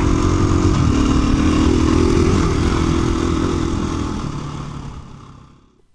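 2017 KTM 350 EXC-F dual-sport's single-cylinder four-stroke engine running steadily, fading out over the last couple of seconds.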